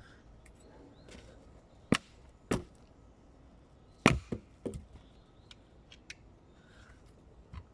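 Firewood being broken up: about five sharp wooden cracks and knocks, the loudest about four seconds in.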